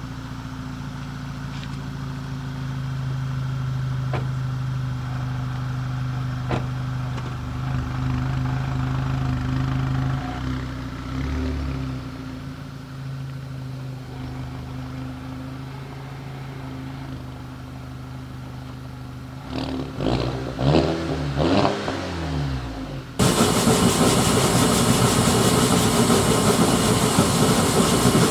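Audi A5 engine idling steadily, then revved several times, the pitch rising and falling, about twenty seconds in. A few seconds later the engine gives way abruptly to a loud, harsh, steady noise.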